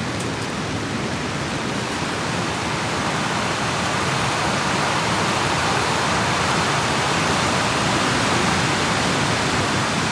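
Steady rushing of a rain-swollen river in flood, gushing loudly, swelling a little about three seconds in.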